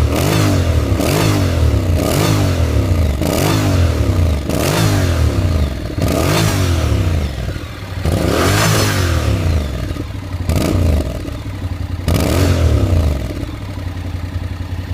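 Honda NC700X's parallel-twin engine breathing through an SP Takegawa cone-oval aftermarket muffler, revved in a string of quick throttle blips about once a second with a few longer revs, then settling to a steady idle near the end.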